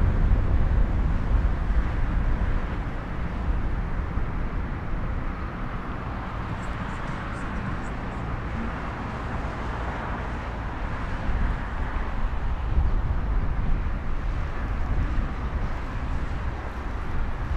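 Open-air ambience: a steady low rumble and hiss of wind and distant traffic, easing slightly in the middle and swelling again near the end.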